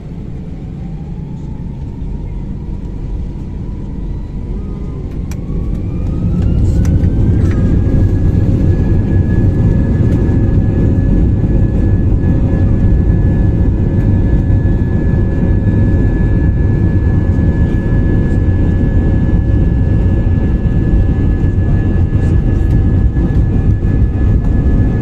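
Airbus A319's IAE V2500 turbofan engines spooling up to takeoff thrust, heard inside the passenger cabin. A whine rises in pitch over the first seven seconds or so while the rumble grows louder, then both hold steady.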